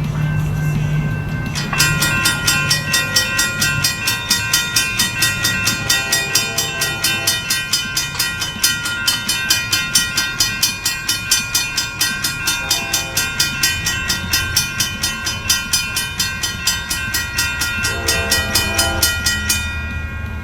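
Railroad grade-crossing warning bell ringing rhythmically, about two strokes a second, from about two seconds in until just before the end, with a train horn sounding faintly a few times, the sign of a train approaching the crossing.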